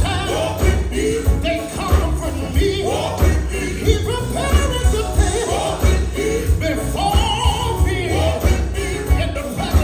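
Live gospel band music: a heavy pulsing bass beat with jingling percussion and voices singing drawn-out notes.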